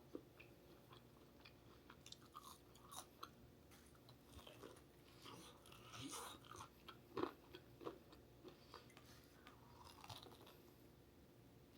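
Close-up eating sounds: quiet chewing with soft, irregular crunches and wet mouth clicks. The loudest crunch comes about seven seconds in.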